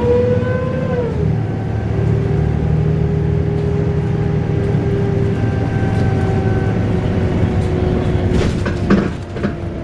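Volvo B7RLE bus running with a loud wailing whine over the low rumble of the engine. The wail rises slightly, drops in pitch about a second in, then holds steady and sags a little near the end, where a few knocks are heard.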